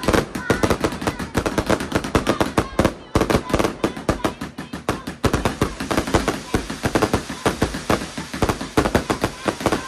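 Consumer fireworks going off in a rapid, continuous run of sharp bangs and crackles, several a second, with no let-up.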